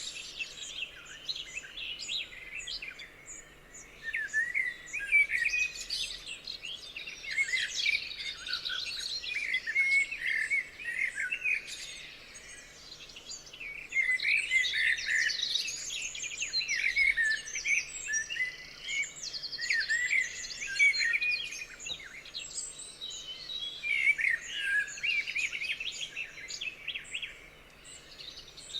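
Several songbirds singing together in a dense chorus of chirps and warbled phrases, coming in bouts with short lulls between them.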